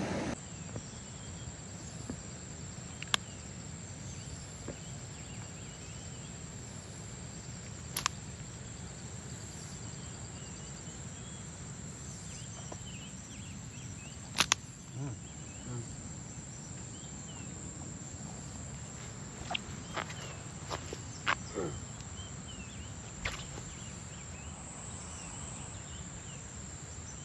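Insects trilling in one steady high-pitched note, with a few sharp clicks scattered through.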